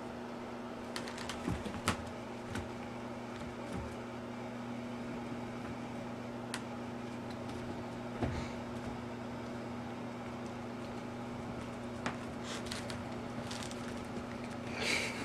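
Steady low hum of room tone, with a few scattered light taps and soft knocks.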